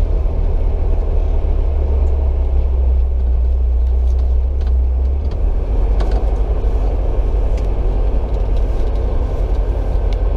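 Classic car engine and road noise heard from inside the cabin while driving slowly, a steady low drone that shifts in pitch about halfway through.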